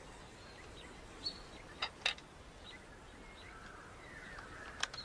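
Faint outdoor ambience with a few short bird chirps and several sharp clicks, the loudest near the start and just before the end.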